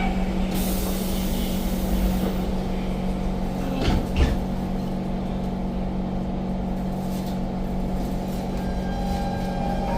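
Inside a Siemens C651 metro train car after the doors close: a steady hum of the train's equipment, with a hiss of air from about half a second to two and a half seconds in and two sharp knocks about four seconds in.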